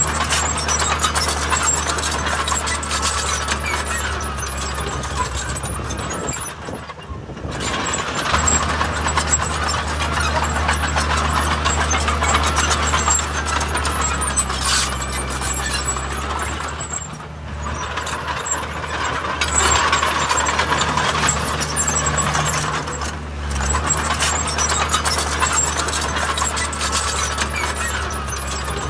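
Heavy diesel construction machinery working: a steady low engine drone with a busy metallic rattle over it, dipping briefly three times.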